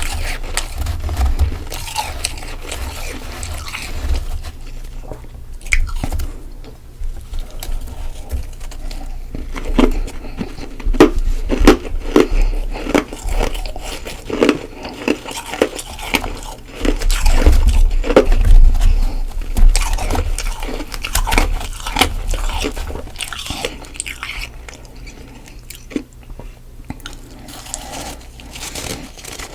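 Close-up biting and chewing of mouthfuls of soft freezer frost: a run of wet, crunchy crunches that thickens in the middle and thins out toward the end.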